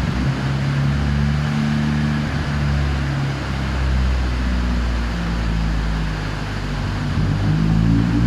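Ford Fiesta RS Turbo's turbocharged 1.6-litre four-cylinder engine running at a steady low speed, its pitch shifting slightly a couple of times.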